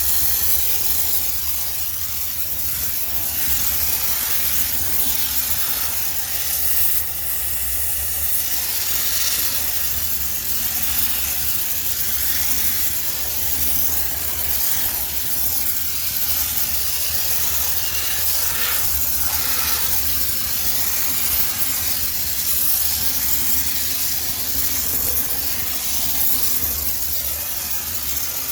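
High-pressure steam sterilizer jetting steam into a washing machine: a steady hiss, with a low hum underneath.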